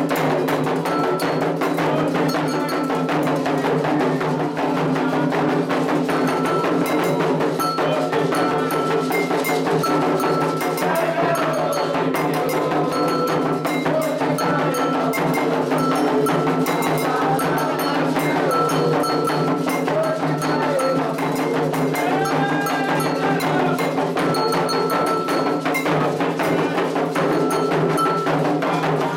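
Candomblé ritual music: atabaque hand drums beating a steady rhythm with a metal bell ringing a repeated pattern over them, and voices singing.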